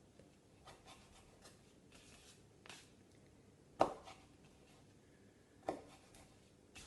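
A knife cutting grapes into quarters: a few short, sharp taps of the blade coming down, the loudest about four seconds in.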